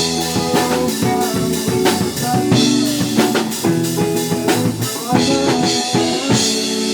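A live rock band playing: drum kit with snare and rimshot hits under guitar chords, settling into a held, ringing chord near the end.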